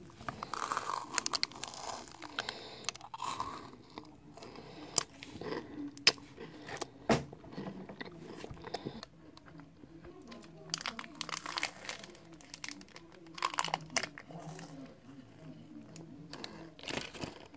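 A Crunky crisped-rice chocolate bar being bitten and chewed right at the microphone: irregular crisp crunching and crackling in clusters with short pauses between bites, and a few sharper snaps.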